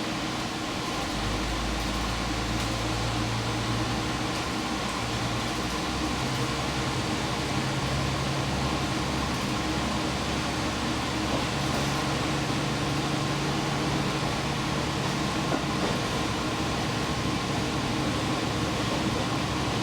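Diesel express railcar running, heard from inside the car under a steady fan-like hum: a low engine note comes in about a second in and rises in steps over the following seconds as the engine throttles up.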